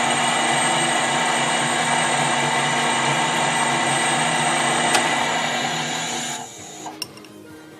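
Metal lathe running a cut on a small threaded part, with a steady whine of motor and gears. It winds down about six and a half seconds in, followed by a few light clicks.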